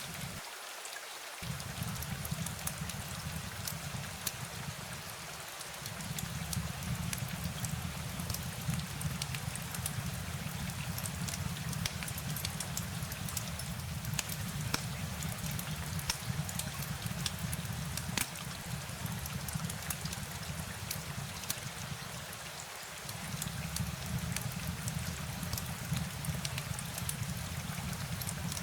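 Steady rain: an even hiss dotted with many sharp drop ticks, over a low rumble that drops out briefly about a second in, near six seconds and about twenty-three seconds in.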